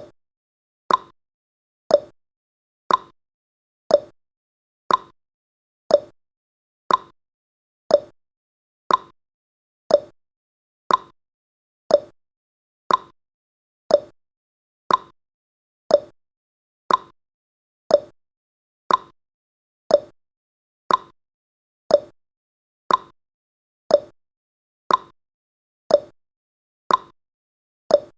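Countdown timer's ticking sound effect: a short, sharp tick once every second, evenly spaced, with silence between ticks.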